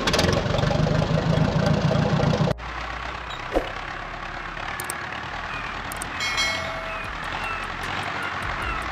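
Engine-like vehicle running noise for about two and a half seconds, cut off suddenly, then quieter steady background noise with a few faint high chirps.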